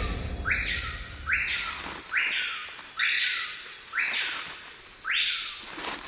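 A bird calling over and over with a harsh, rasping call about once a second, each call ending in a short downward slide.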